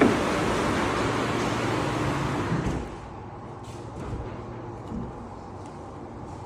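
Refrigeration unit of a cold-storage chamber running on its first pull-down: a steady rush of air with a low hum. The sound drops sharply to a quieter hum about three seconds in, with a few faint clicks after.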